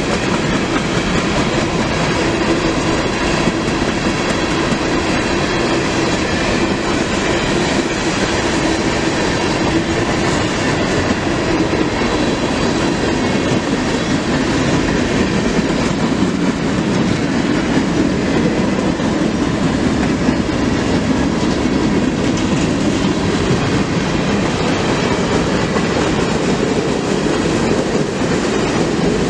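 Freight train rolling past on the rails: a steady, loud run of wheel and railcar noise that goes on without a break.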